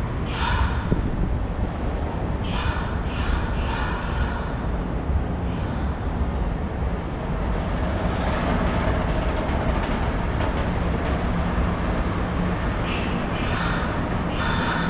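Train running, a steady low rumble, with short high-pitched squeals several times.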